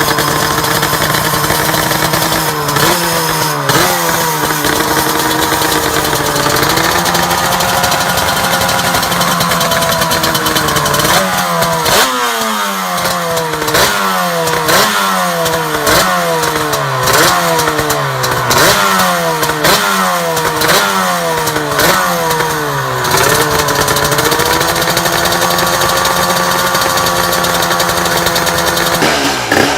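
Two-stroke motorcycle engine held at a fast idle and revved: a couple of quick blips, then a slower rise, then a run of short throttle blips about one a second for some twelve seconds, each climbing and dropping back. It settles to a steady idle near the end.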